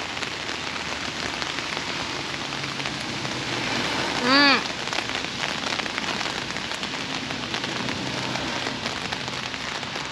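Heavy rain falling steadily, a constant hiss of drops. About four seconds in, a short hummed voice sound, rising then falling.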